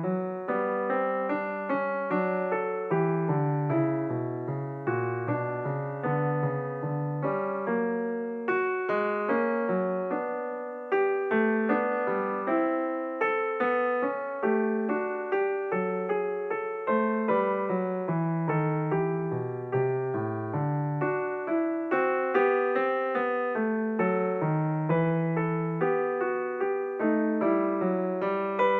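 Background piano music: a continuous run of struck notes over a moving bass line.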